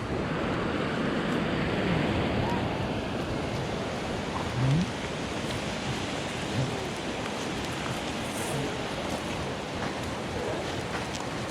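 Steady rushing of a flowing river stream.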